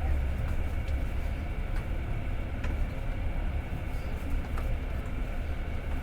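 Passenger train running, heard from inside the carriage: a steady low rumble with faint sharp clicks about once a second as the wheels pass over rail joints.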